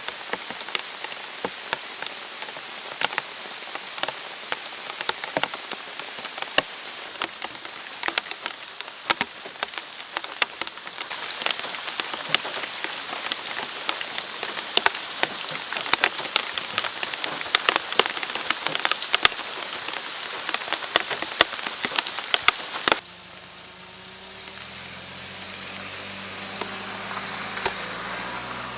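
Steady rain falling in a forest, with many sharp drops hitting close by. About 23 seconds in it cuts suddenly to quieter, softer rain with a low steady hum beneath it.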